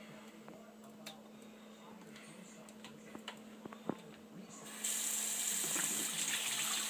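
A few faint clicks and small splashes, then running water starts suddenly about five seconds in and goes on steadily, filling the Quaker parrot's bath bowl.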